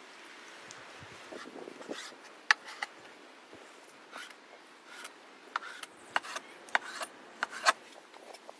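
Irregular sharp taps and clicks with soft rubbing and scraping between them, the sound of something being handled. The loudest taps come about two and a half seconds in and in a cluster near the end.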